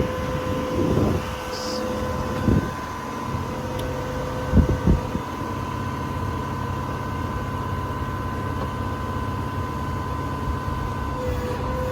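6.7-liter Power Stroke diesel of a Ford F550 service truck running with its PTO-driven hydraulics engaged: a steady low engine rumble under a constant whine. One whine tone cuts out about two and a half seconds in, and a couple of short knocks come a little before the middle.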